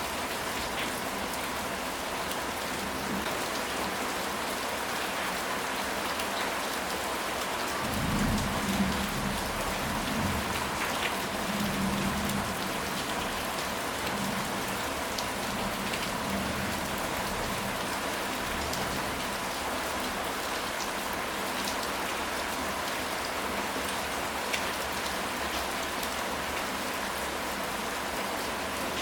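Steady rain falling. About eight seconds in, a rumble of thunder rolls in and fades out over several seconds.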